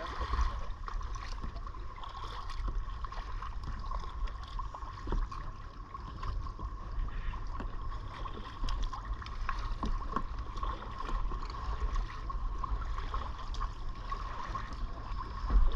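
Kayak paddle strokes and small water splashes and lapping against the hull. Under them runs a steady low rumble and a faint steady high whine, with a slightly louder splash near the end.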